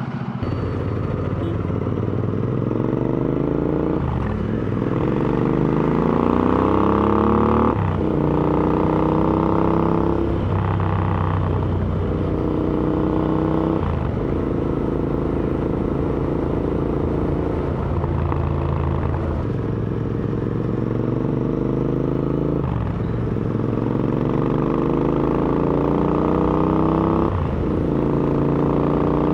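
Royal Enfield Interceptor 650's parallel-twin engine through AEW aftermarket exhausts, pulling up through the gears: the note climbs, breaks off sharply with each gear change and drops back, about seven times, with steady cruising stretches between.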